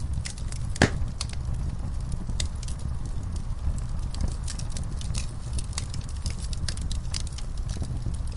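Wood fire burning in a fireplace: a steady low rumble of flames with frequent sharp crackles, and one louder pop about a second in.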